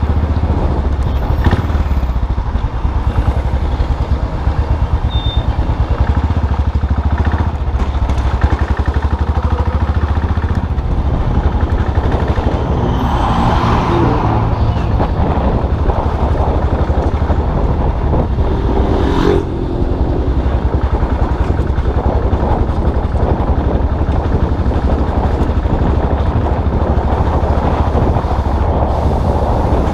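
Custom motorcycle's engine running steadily under way, with road noise. The engine briefly eases off about two-thirds of the way through.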